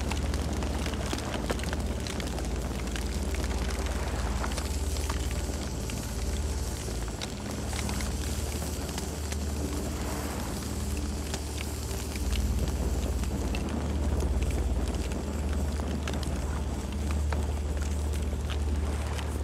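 Campfire burning with a steady low rumble and scattered crackles and pops of burning wood.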